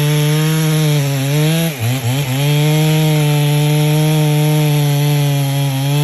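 Holzfforma two-stroke chainsaw running at high revs, cutting into a pecan log. The engine pitch sags briefly about two seconds in, then picks back up and holds steady.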